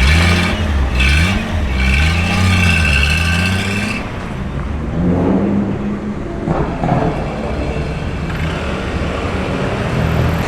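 A car engine revved in a series of quick blips for about four seconds, its pitch rising and falling each time, then dropping back to a quieter, steadier run.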